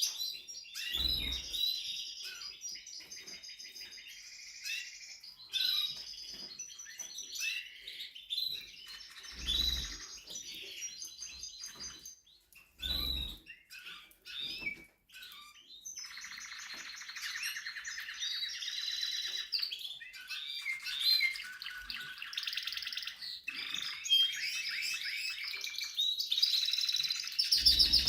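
Spanish Timbrado canary singing: a long run of rapid rolling trills and chirps with short pauses between phrases. A few soft low thumps come in the first half.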